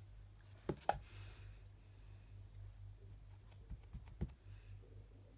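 A few soft knocks and taps of craft tools being set down and handled on a desk, two about a second in and a few more near four seconds, over a faint steady low hum.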